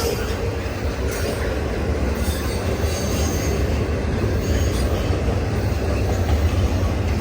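A long CN freight train rolling past at a steady speed: a continuous rumble of wheels on rail, with a few faint, brief wheel squeals.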